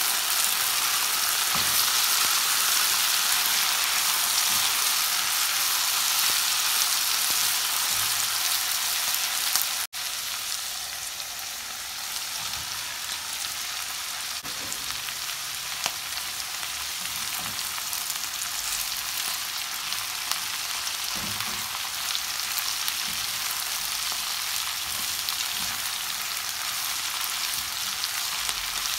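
Green beans sizzling in hot oil in a nonstick frying pan as they are stirred with a silicone spatula, a steady hiss. About ten seconds in the sound cuts briefly, and the sizzle carries on a little quieter with sliced onion added to the beans.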